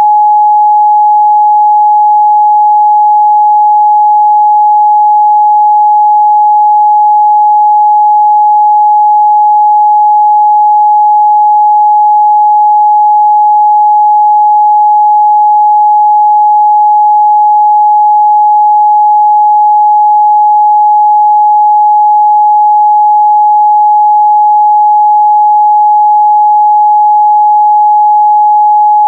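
Steady, loud 841 Hz pure sine-wave test tone, one unchanging pitch with nothing else.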